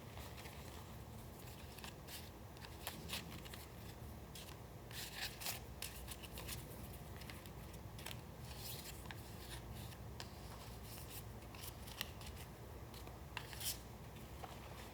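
Paper being handled at close range: short, crisp snips and rustles, scattered and irregular, with clusters about five seconds in, around nine seconds and near the end.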